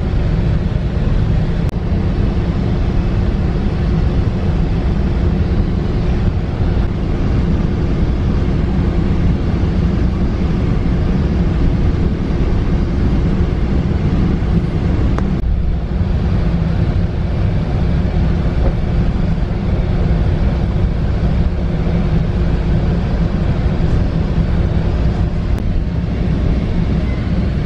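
Steady running noise of a Metrolink passenger train at speed, heard from inside the car: a constant low rumble of wheels on rail with a faint steady tone in it.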